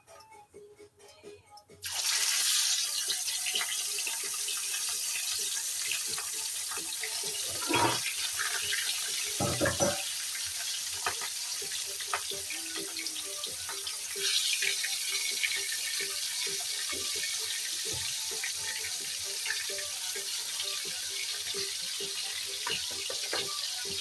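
Food frying in hot oil: a steady sizzle that starts suddenly about two seconds in and swells again about halfway through, with a few utensil knocks.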